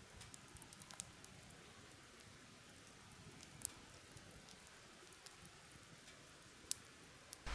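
Near silence with a faint hiss, broken by a few scattered, sharp ticks, the loudest about three and a half seconds in and again near the end.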